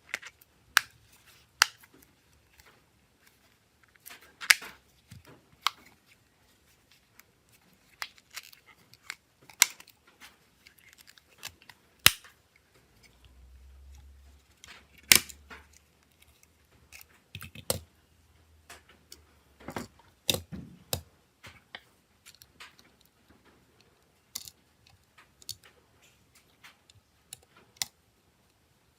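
Irregular sharp clicks and taps of small tools and parts being handled during a smartphone repair, coming one or a few at a time with pauses between them.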